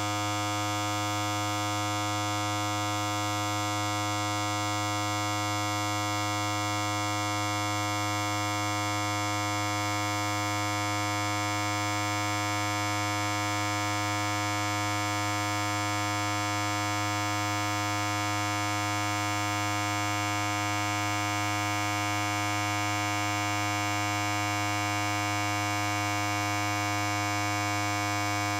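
Electric hair clipper running steadily: a constant buzz with a strong low hum and many overtones, holding the same pitch and level.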